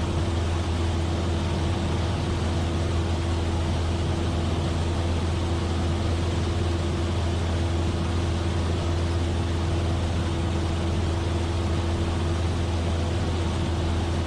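Steady drone of a Cessna 172F's engine and propeller in flight, heard inside the cabin, with a constant low hum and a steady higher tone over a wash of air noise.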